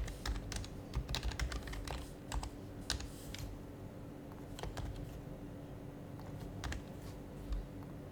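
Typing on an HHKB Professional HYBRID Type-S keyboard, its dampened Topre keys giving soft clicks. There is a quick burst of keystrokes over the first few seconds, then only a few scattered presses.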